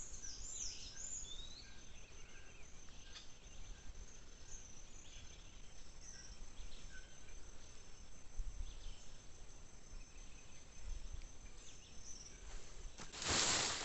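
Night-time ambience of insects: a steady high cricket trill with scattered short chirps and whistles over it. Near the end a brief, louder rustling noise cuts in for about a second.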